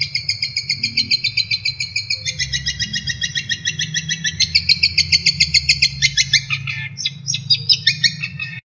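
Recorded songbird song used as masteran training song: fast strings of high, rapid-fire repeated notes that switch to a new phrase every second or two. It cuts off abruptly just before the end.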